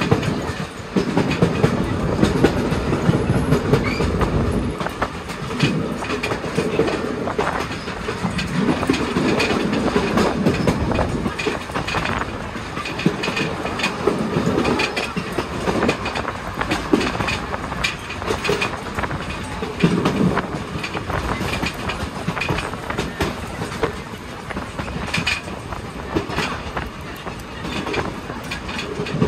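Railroad passenger cars rolling along the track, heard from aboard the rear car: a steady rumble of wheels on rail, with irregular clicks throughout.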